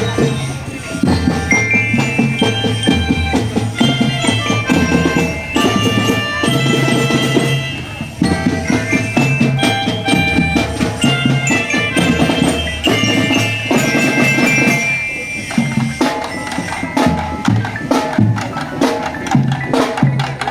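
Marching drum band playing a tune: bell-like mallet notes carry the melody over a steady beat of drums.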